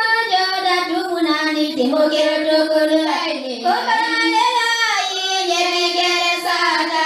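Children singing a song, loud and continuous.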